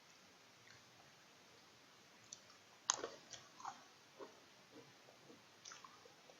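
Faint bite and chewing crunches of a Pepero White Cookie biscuit stick. A sharp snap comes about three seconds in, followed by a scatter of small crunching clicks.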